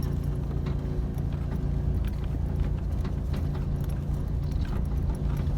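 A motor vehicle's engine running steadily, with light rattling and clicking over it.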